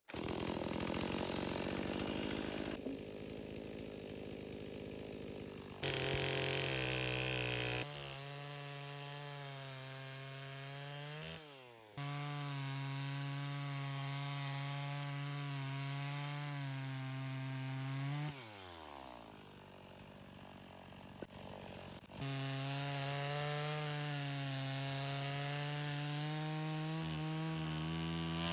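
Chainsaw running at high revs, cutting wood; twice the engine pitch falls away as the throttle is released and then comes back up.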